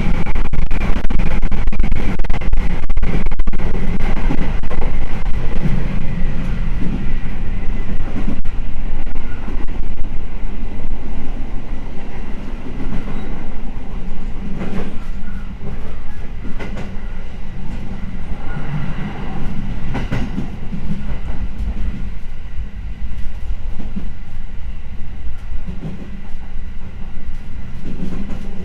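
A 209 series 2100-subseries electric train runs with its wheels clacking over rail joints. The sound grows quieter as it slows into the station.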